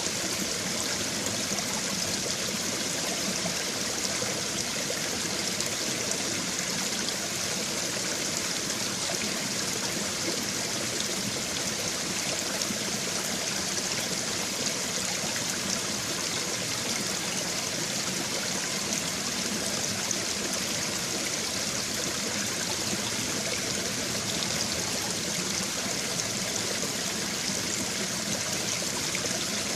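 A shallow brook babbling steadily over stones, a continuous rush of running water with fine trickling and gurgling.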